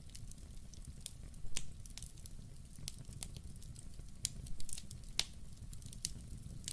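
Wood fire burning in a fireplace: a steady low rumble with irregular sharp crackles and pops, the loudest about five seconds in.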